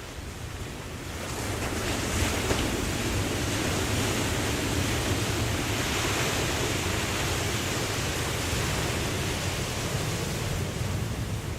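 Ocean waves washing in: a broad rushing surge that builds about a second and a half in, holds, and eases off near the end, over a steady low rumble of surf.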